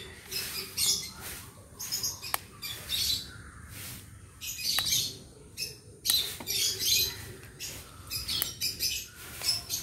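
African lovebirds chirping and squeaking in short, high-pitched bursts, over and over, with a few sharp clicks among them.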